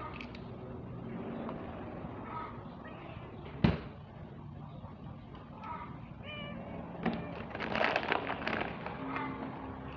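Cats meowing a few short times, with one sharp knock just under four seconds in and a stretch of clicking and rustling near the end.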